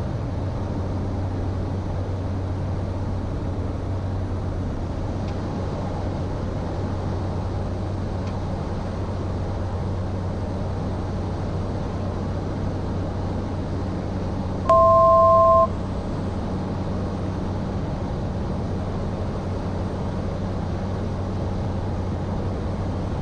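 Cessna Caravan 208's PT6A turboprop engine and propeller droning steadily with a low, even hum. About two-thirds of the way through, a loud one-second cockpit alert tone of two pitches together sounds once.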